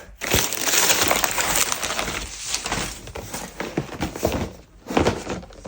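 Packaging crinkling and rustling as a gift box is handled and unwrapped, with a dense crackle for the first couple of seconds, then scattered clicks and a short rustle near the end.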